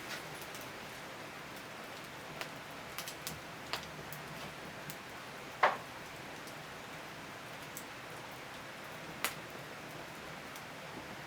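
Firewood burning in a traditional Korean agungi firebox: a steady hiss with scattered crackles and pops, the loudest pop about halfway through and another sharp one near the end.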